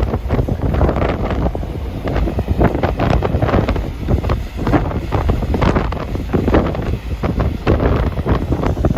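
Strong wind buffeting the microphone in irregular gusts, with a loud, rumbling low end.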